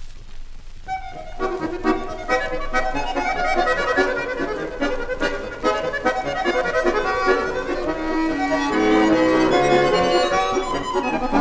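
Vinyl record playing: about a second of quiet groove with surface clicks between tracks, then a Russian folk-style instrumental introduction starts and plays on before the singing comes in.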